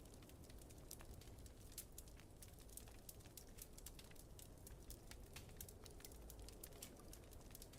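Wood fire in a fireplace crackling, with many small irregular pops over a low steady rumble.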